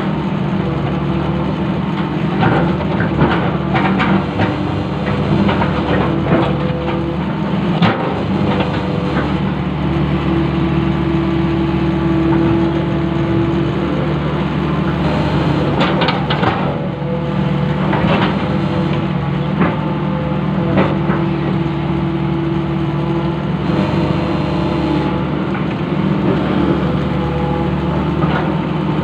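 Long-reach excavator's diesel engine running steadily, with scattered knocks and clanks over it.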